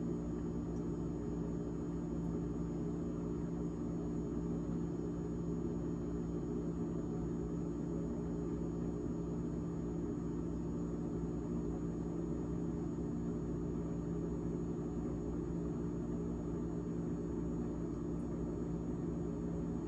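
GE GTH18XCTZRBB refrigerator's fan running with a steady, unchanging hum made of several low tones.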